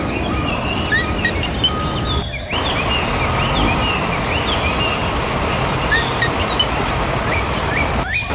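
Birds chirping in many short repeated calls over a steady background rumble, with a thin steady high tone running under them.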